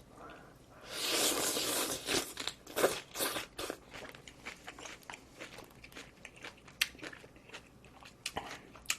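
A person eating close to the microphone: a loud, noisy bite lasting about a second starting a second in, then steady chewing with many small sharp clicks.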